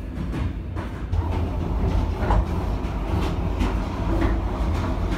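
Passenger train on the Ulaanbaatar–Beijing line running on the rails: a steady low rumble with irregular clacks and knocks, getting louder about a second in.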